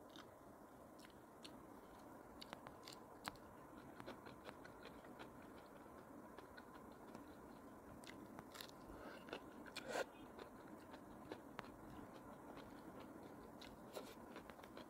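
Close-miked chewing and crunching of crisp lettuce: scattered crunchy bites and wet mouth clicks, the loudest about ten seconds in.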